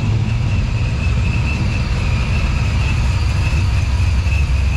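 Car engines running, a steady low rumble, with a thin steady high-pitched whine above it.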